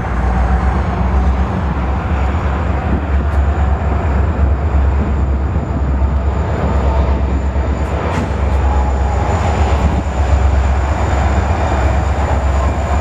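Diesel freight train with Union Pacific locomotives running past, a steady low rumble.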